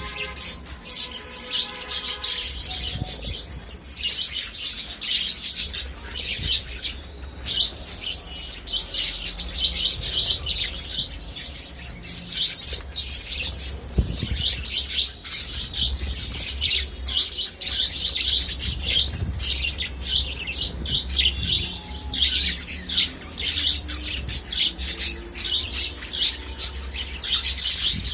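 Budgerigars chattering: a dense, continuous stream of quick high chirps and warbles.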